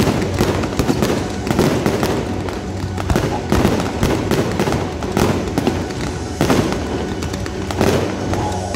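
Fireworks display: a continual run of bangs and crackling from rockets launching and shells bursting overhead, with a loud bang every second or so.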